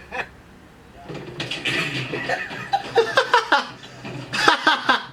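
A person laughing in short repeated bursts, starting about a second in.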